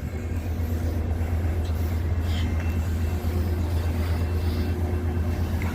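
Steady low engine rumble of a nearby vehicle, building slightly at first and then holding level.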